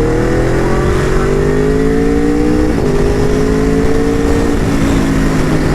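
Aprilia RSV4 RF's V4 engine pulling hard under acceleration, its pitch climbing steadily with two quick upshifts, about three seconds and four and a half seconds in, each dropping the revs a little before it climbs again. Wind rushes across the microphone at riding speed.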